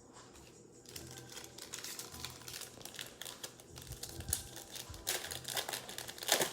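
Plastic trading-card pack wrapper crinkling as it is handled and torn open, with the crackle growing louder near the end.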